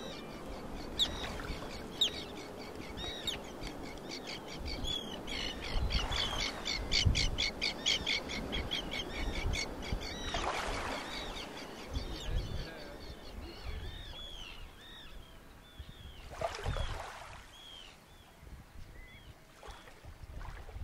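Wild birds calling. A fast run of repeated high calls, about four a second, gives way to slower, short arching chirps. Under them are several rushing swells of noise.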